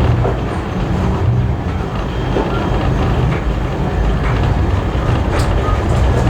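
Steam-hauled heritage passenger carriage running along the line: a steady low rumble of wheels on rails with a few faint clicks and rattles.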